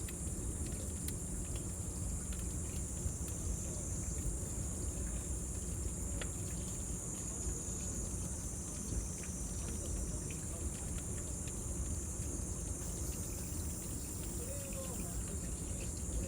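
A steady high insect chorus over a wood bonfire crackling with scattered small pops and a low, even roar underneath.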